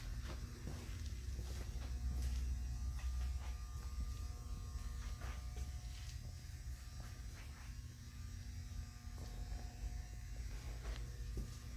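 Vacuum truck running: a steady low drone with a buzz over it, a little louder for a second or two shortly after the start.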